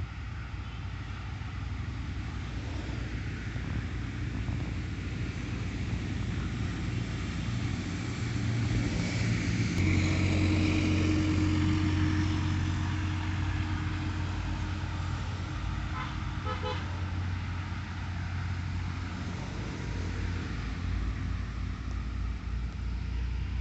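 A motor vehicle's engine rumbling, growing louder toward the middle and then easing off, with a vehicle horn tooting.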